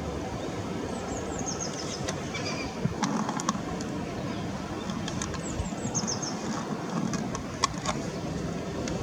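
Garden birds chirping: two short runs of quick, high, falling notes, about a second and a half in and again about six seconds in, with a few sharp clicks between them. A steady background rumble of traffic runs underneath.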